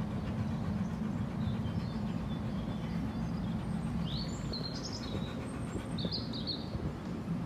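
Steady low outdoor rumble with birds chirping, a few short high chirps clearest about four seconds in and again near six seconds.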